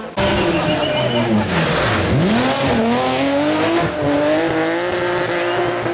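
Rally car engine: revs falling for about two seconds, then climbing again and holding steady as the car powers on, with a burst of tyre noise in the middle.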